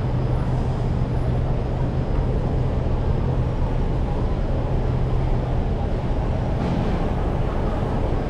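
Steady road-traffic noise with a constant low engine hum.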